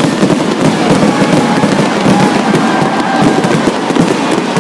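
Fireworks going off in quick succession, a loud, dense, continuous crackle of pops.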